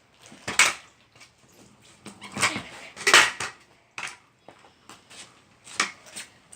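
Stunt scooter clattering on the ground during tricks: a series of sharp metal knocks and rattles, about six hits spread irregularly, the loudest about half a second in and around three seconds in.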